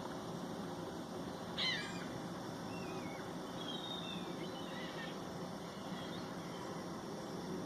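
Birds calling: one sharp call about one and a half seconds in, then a few short, falling chirps, over a steady background hiss.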